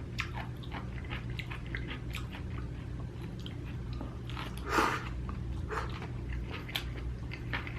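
Close-miked chewing and biting of food: many small wet clicks, with one short louder mouth sound about five seconds in.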